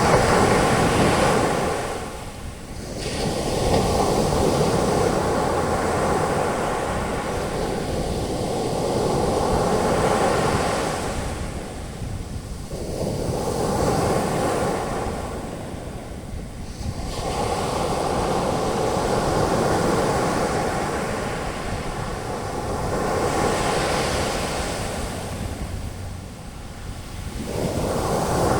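Ocean surf washing in on a beach as foaming waves, a continuous hiss that swells and fades as each wave runs up and drains back, with short lulls between them.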